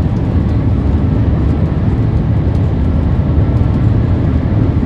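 Steady low rumble of a moving vehicle in motion, even throughout with no distinct events.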